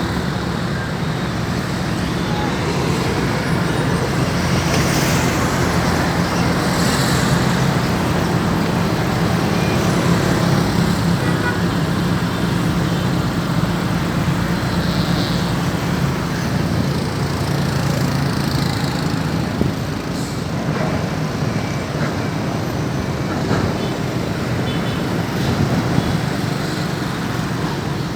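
Steady motor-vehicle and road noise with a constant low engine hum and no marked changes.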